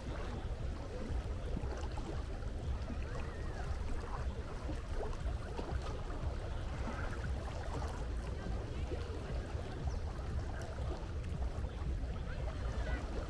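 Steady seaside ambience: sea water washing continuously, with a low rumble underneath.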